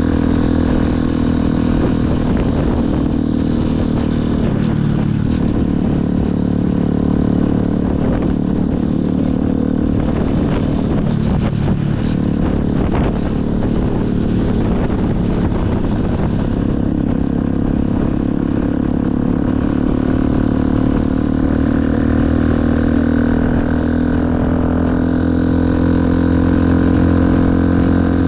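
Motorcycle engine running while riding. Its pitch wavers up and down through the middle, then climbs slowly near the end.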